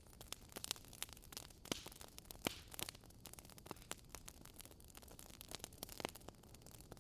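Wood fire burning in a fireplace, crackling and popping at irregular intervals over a soft steady hiss, with one sharper pop about two and a half seconds in.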